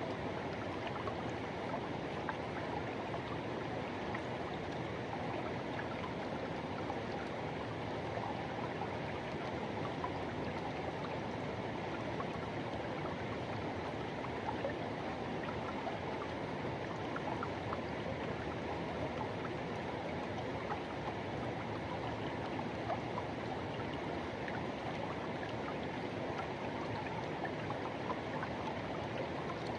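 Forest river water rushing and gurgling steadily over rocks, with small splashes ticking now and then.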